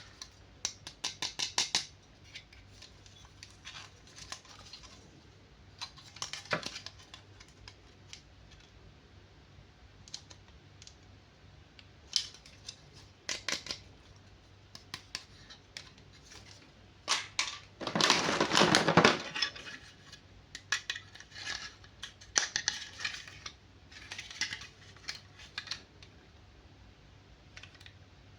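Toy packaging being handled and opened: scattered clicks, taps and light clatter of plastic and cardboard, with a louder stretch of rustling or scraping about 18 seconds in.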